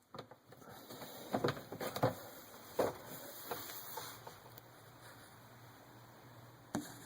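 Plastic dishwasher filter parts being handled and fitted back into the tub: a series of scattered light clicks and knocks in the first few seconds, then faint handling noise.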